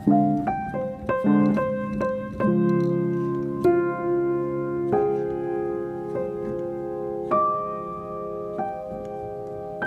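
Calm, slow piano music: single notes and chords struck and left to ring, busier in the first few seconds and then settling into held chords with an occasional note.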